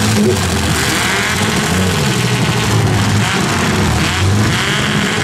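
Engines of several demolition derby cars running and revving, their pitch rising and falling.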